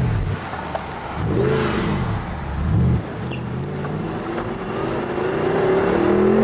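Audi R8's mid-mounted engine, heard from inside the cabin. Its revs rise and fall in a few short swells, then from about four seconds in climb steadily and grow louder as the car accelerates.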